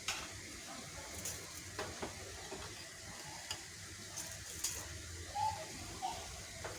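Scattered light clicks and taps of utensils and a cooking pot being handled while raw chicken is seasoned, over a faint steady hiss.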